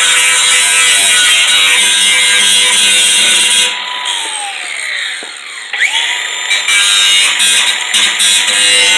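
Electric power tool running at full speed with a steady whine; about four seconds in it is let off and winds down with falling pitch, then is triggered again just before six seconds and spins back up with a rising whine.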